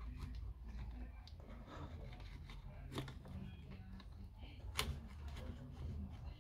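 Small clicks and rustles of hands and tools working on the Apple Time Capsule, with two sharper clicks about three and five seconds in.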